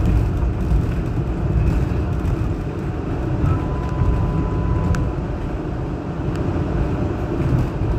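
Interior running noise of a Hong Kong Light Rail Phase I light rail vehicle under way: a steady low rumble of wheels on track, with a faint steady high tone for a couple of seconds in the middle and a single click about five seconds in.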